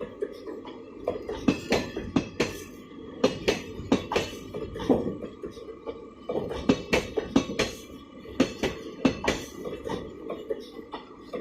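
Train wheels clattering over the rails: a run of irregular metallic knocks and clanks, several a second, over a steady rumble.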